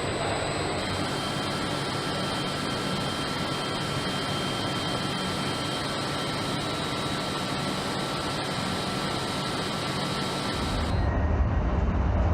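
Jet aircraft engines running with a steady rushing noise and a faint steady whine. About eleven seconds in, it cuts abruptly to a louder, deeper rumble.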